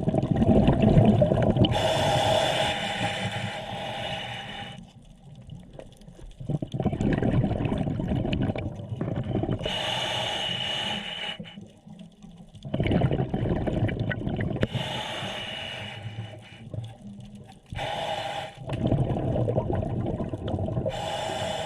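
Scuba diver breathing through a regulator underwater: exhaled bubbles gurgling in four long bursts, with short quieter gaps between breaths.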